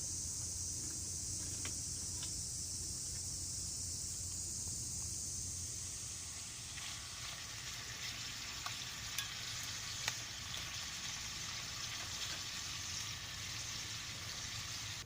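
Steady sizzling hiss with a few small sharp pops. About seven seconds in it grows fuller and spreads lower.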